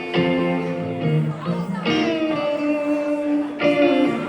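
Live band music with a guitar solo: long held notes with pitch bends over the band's backing.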